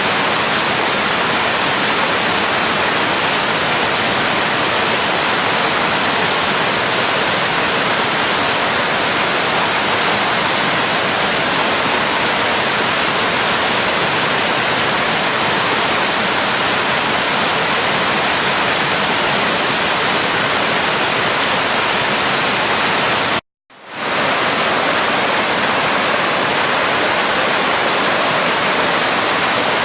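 Waterfall swollen with flash-flood water after heavy overnight rain: a loud, steady rush of water. A thin, steady high whine runs over it until about 23 seconds in, where the sound cuts out for an instant; the water resumes without the whine.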